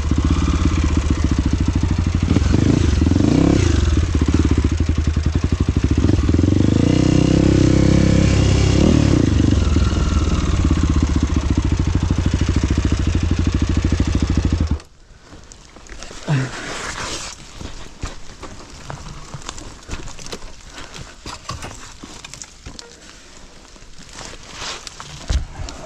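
Trail motorcycle engine running with a couple of brief revs, then stopping abruptly about fifteen seconds in; afterwards only scattered light ticks and knocks.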